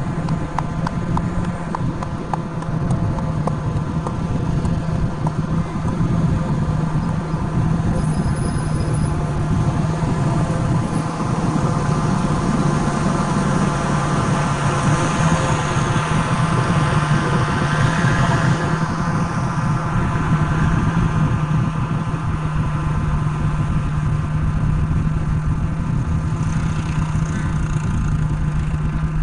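Truck engine running at a steady, unchanging pitch, with a rushing noise that builds through the middle and eases off about nineteen seconds in.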